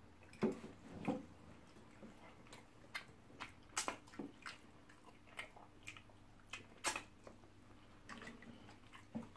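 People eating: irregular, wet chewing and mouth clicks, with two sharper clicks about four and seven seconds in.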